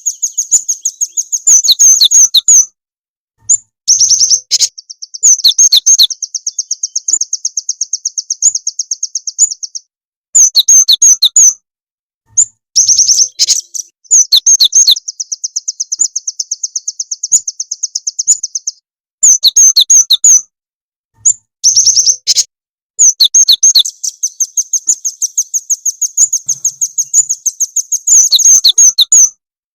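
Bird lure recording of cinereous tit and velvet-fronted nuthatch calls: loud, high, rapid chirps and fast trills repeated over and over. The stretches of calling stop and start abruptly several times, with short dead silences between them, as in an edited loop.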